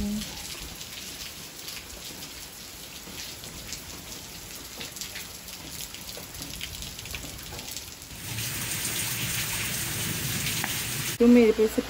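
Light rain falling, a steady patter of drops on surfaces. About eight seconds in it gives way to a louder, fuller hiss for about three seconds.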